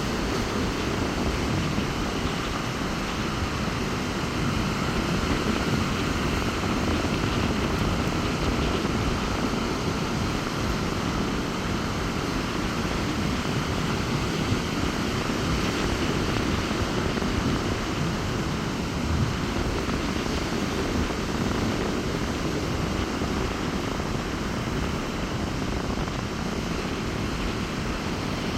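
Waves breaking on a beach in a strong wind: a steady, loud wash of surf that swells and eases slowly, with wind noise mixed in.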